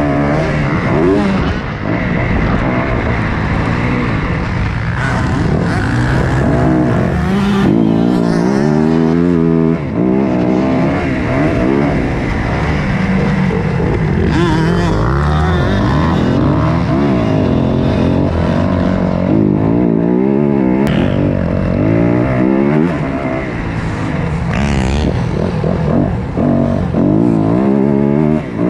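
Several motocross dirt bikes racing, their engines revving up and down repeatedly as they shift through the gears, with no let-up.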